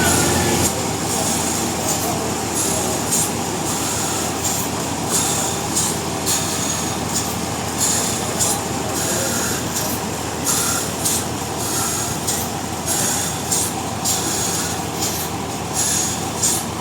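Sawmill machinery running steadily, with irregular short high hissing flares over a constant mechanical din.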